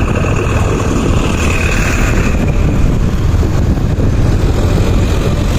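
Motorcycle running steadily while being ridden, with a steady rumble of wind noise underneath.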